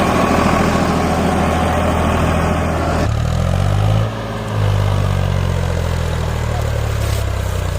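Diesel tractor engine running. About three seconds in, the sound changes abruptly from a rough, noisy running to a steadier engine note, and it dips briefly in loudness about a second later.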